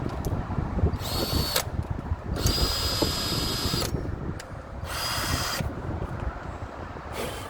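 Power drill run in four short bursts, its motor whining up to a steady high pitch each time and stopping in between, the second burst the longest.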